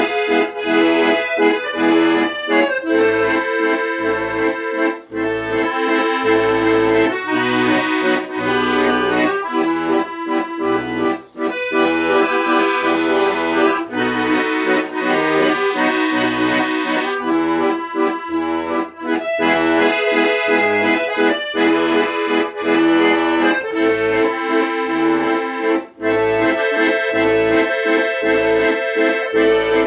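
Instrumental Russian chanson: an accordion plays a sustained melody over a rhythmic bass accompaniment, with no singing.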